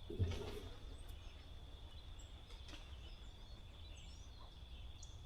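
Faint outdoor ambience: a few brief, distant small-bird chirps over a steady low rumble and a thin, steady high-pitched tone.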